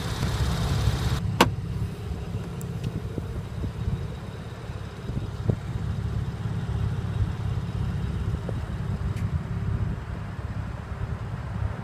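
A Porsche 911 Carrera 4S's flat-six engine idling with a steady low rumble, and a single sharp click about a second and a half in.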